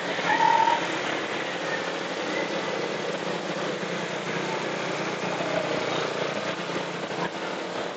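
Motorcycle engine running amid traffic noise during a ride. A short horn-like beep sounds about half a second in.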